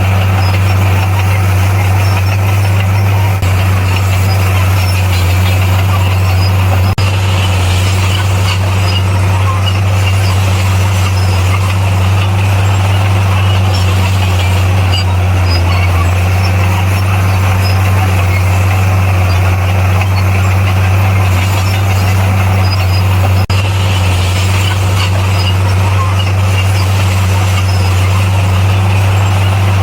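Heavy diesel engine of earthmoving machinery running steadily: a constant low engine drone with mechanical clatter and hiss above it. It breaks off very briefly twice, about seven seconds in and again later.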